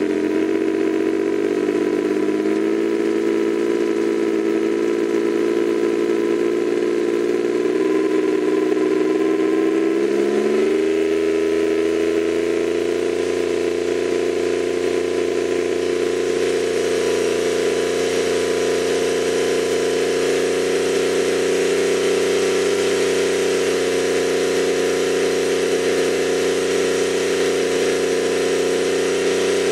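Overhauled Suzuki K6A 660 cc three-cylinder turbo engine running on its post-overhaul test run: it runs steadily, its speed rises over about a second roughly ten seconds in, then it holds steady at the higher speed.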